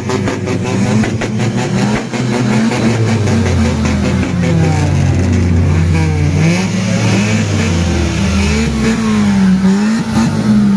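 Car engines running loudly and being revved over and over, the engine note climbing and falling in repeated blips from about four seconds in.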